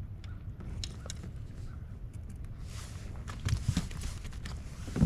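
Water splashing and knocks on a bass boat as a hooked bass is landed in a landing net, over a steady low rumble. The splashing starts a little past halfway, with a loud thump near the end.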